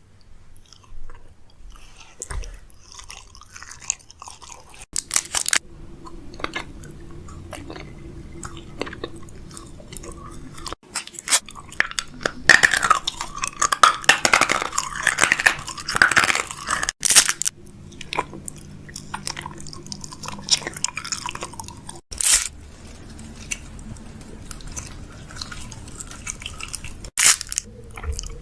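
Packaged snacks being handled and restocked: wrappers crinkling, and loose snacks rattling and crunching as they are tipped into containers, busiest in the middle, with a few sharp clacks of containers being set down or closed.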